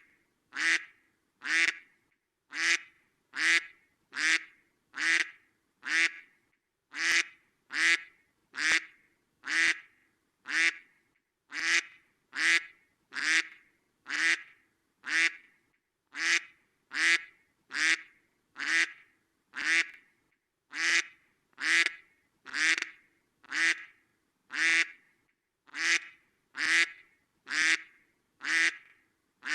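A duck quacking over and over at a steady pace, about three short, alike quacks every two seconds.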